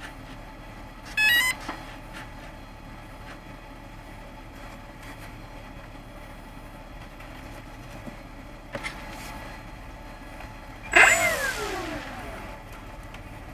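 A quick run of electronic beeps rising step by step in pitch about a second in, from an RC model's electronics arming. Near the end, a loud burst from a small electric motor whose whine falls steadily in pitch over about a second and a half as it spins down.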